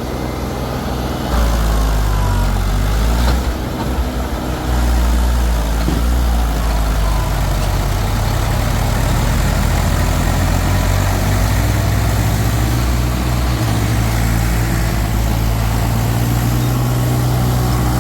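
Diesel tractor engines running hard under load while pulling a tractor stuck in mud. The engine note gets louder about a second in, dips briefly, rises again near the five-second mark, and then holds steady.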